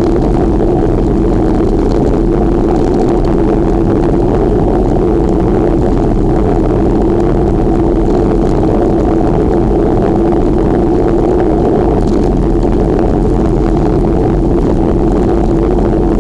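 Steady, loud rushing drone of riding noise, wind and road, picked up on the move during a bike ride, with no change in level.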